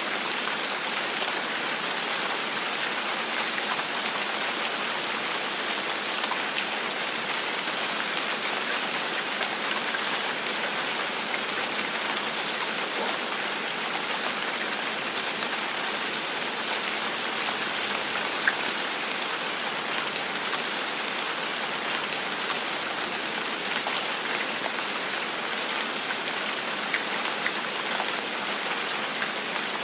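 Steady gentle rain falling on a surface, an even hiss dotted with the small ticks of individual drops.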